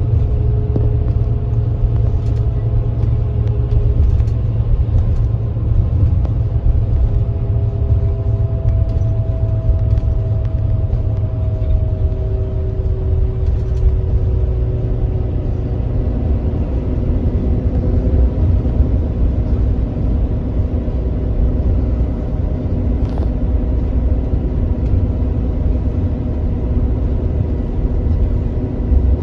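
Kia Granbird Sunshine coach at speed: a steady heavy low rumble of engine and road noise, with the engine's tones gliding slowly lower in pitch about a third of the way in and settling lower for the rest.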